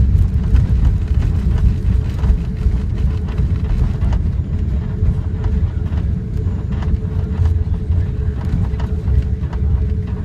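Airliner cabin noise on the ground after landing: a loud low rumble with a steady hum, and frequent small rattles and knocks as the aircraft rolls along.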